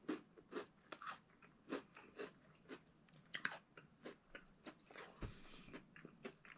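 Faint chewing of a crunchy chocolate-covered MRE cookie, like a fudge-covered graham cracker: soft, irregular crunches about two or three times a second.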